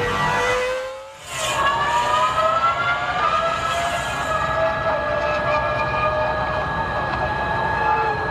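Formula One car's 3.0-litre V10 engine running at high revs, a high-pitched whine that rises in pitch as it accelerates and then holds. The sound dips briefly about a second in.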